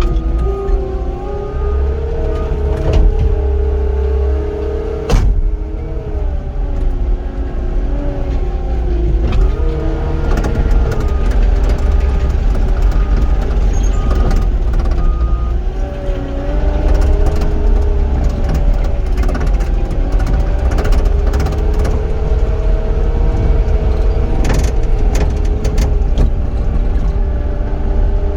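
Cat 259D compact track loader's diesel engine running steadily under load, its pitch drifting up and down as the machine works. Scattered clanks and rattles run through it, with one sharp knock about five seconds in.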